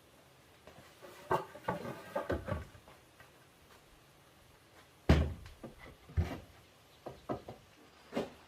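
Irregular knocks and thuds of objects being handled, several in a row early on and the loudest, deepest one about five seconds in, with a few lighter knocks after it.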